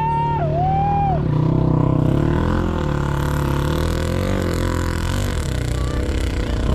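Several racing sidecar motorcycle engines running at once, revving up and down. In the first second a high engine whine bends and dies away.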